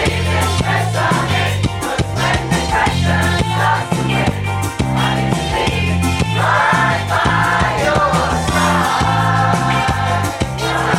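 Upbeat pop music with a steady bass and drum beat and a group of voices singing together, the singing swelling into held notes about halfway through.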